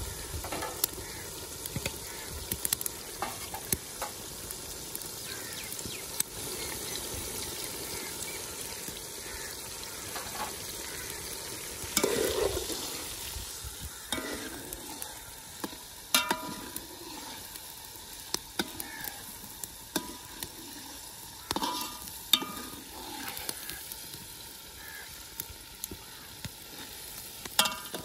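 Onions, tomatoes and peas sizzling in ghee in a large aluminium cooking pot as they soften, stirred with a long steel slotted spoon. The spoon scrapes the pot and knocks against its sides several times, some knocks ringing briefly.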